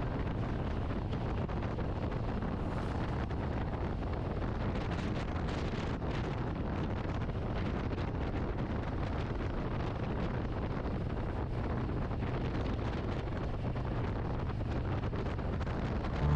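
Wind rushing over the microphone with the low, steady drone of a Harley-Davidson motorcycle cruising at highway speed.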